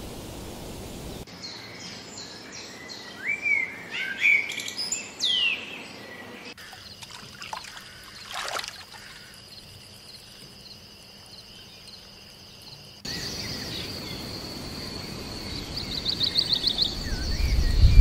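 Birdsong from several short spliced nature recordings: quick whistled chirps and slurred notes, then thin high held tones, then a brief rapid trill, with a background hiss that changes at each cut.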